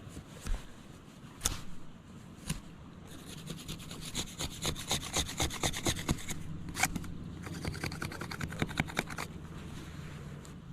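Knife scraping bark off a wooden stick to make a roasting spit: a few separate scrapes, then a fast run of short rasping strokes, about five or six a second, with a brief pause in the middle.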